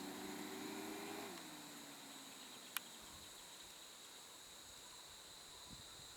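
A vehicle engine idling, its pitch dropping as it fades out about a second in. Then a faint, steady, high-pitched insect drone, with a single sharp click near the middle.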